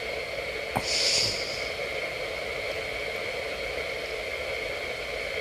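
CB radio receiver hissing with steady static on an open channel, with no station answering the call. About a second in, a short click and a brief breathy snort close to the microphone.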